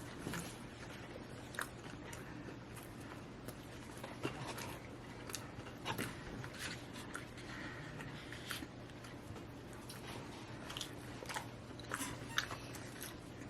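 A person chewing and biting food, with scattered short crunches and mouth clicks, over a steady low hum.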